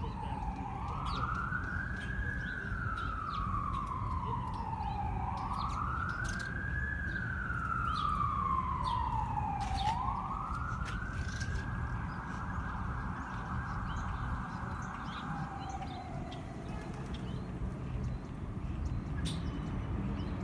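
Siren wailing in slow rises and falls, about three cycles. It then holds a steady high note for a few seconds and slides down and fades away. A steady low background rumble runs under it.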